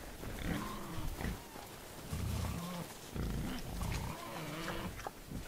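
Wild boars grunting: a string of short, low grunts every half second or so.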